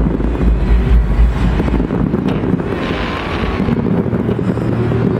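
Fireworks going off across the water, bangs and crackle heard at a distance, under wind buffeting the microphone that is strongest for the first two seconds.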